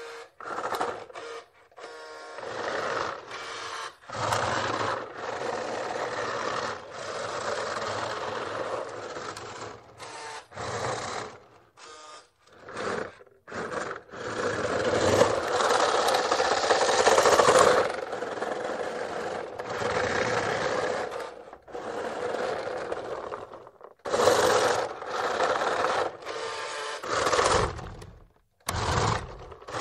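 Remote-controlled toy fire truck's electric motor and gears whining with a bright buzz as its wheels spin freely, in a string of short and long runs that start and stop abruptly; the longest run lasts several seconds around the middle.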